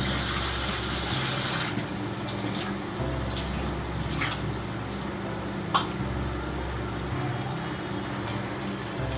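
Browned sliced onions frying in oil in a kadai: a hissing sizzle, strongest for the first couple of seconds, then steadier and quieter, with a few sharp clicks.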